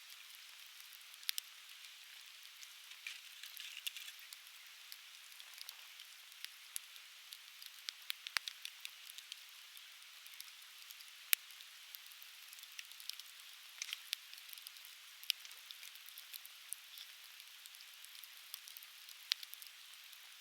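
Conifer firewood burning, crackling with irregular sharp pops and snaps over a steady hiss.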